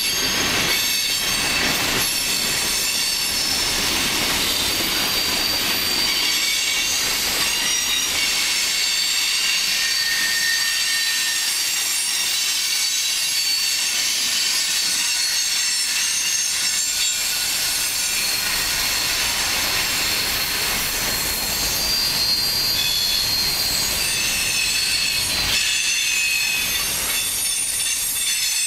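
Freight train cars rolling steadily past, with the wheels squealing in several high-pitched tones that shift and overlap over a low rumble.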